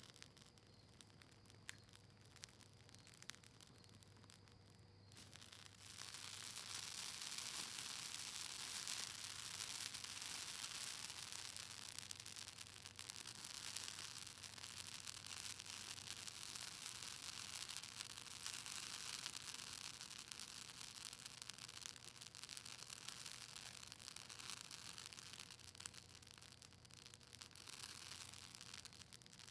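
Campfire of cedar leaves and maple wood crackling, faint with scattered pops at first, then a dense hissing crackle from about six seconds in.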